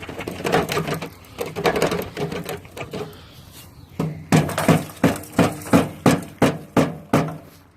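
Irregular clattering, then a run of about ten knocks at roughly three a second, each with a hollow ring: a metal gutter downspout being struck to dislodge a bird trapped inside.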